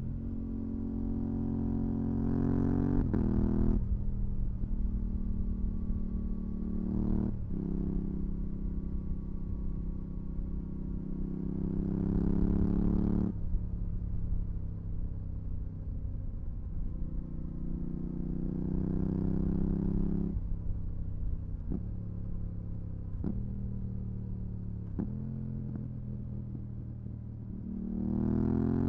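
Yamaha R7's parallel-twin engine through a full MIVV GP Pro exhaust with dB-killer, pulling through the gears. The note rises over a few seconds and then drops sharply at each upshift, three times in the first half. Later, after several quick shifts as the note settles lower, it pulls hard again near the end.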